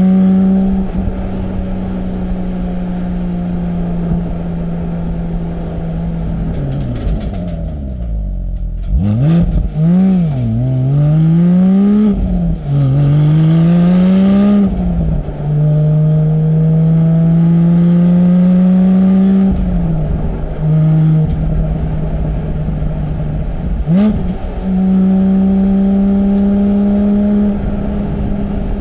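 Porsche 718 Spyder's 4.0-litre naturally aspirated flat-six through its sports exhaust, under way: a steady drone that drops away about a quarter of the way in, then several rising revs, each cut off by a gear change, before settling into a slowly climbing pull. A quick rev blip comes near the end.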